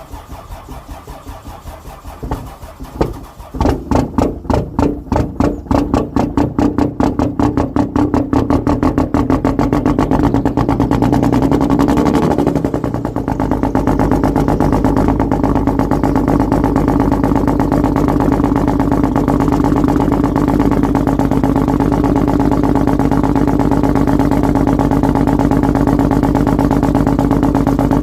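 Dodge Cummins inline-six diesel cold-starting at −8°F. It cranks, catches about three seconds in with loud, uneven firing pulses, then settles over several seconds into a steady idle.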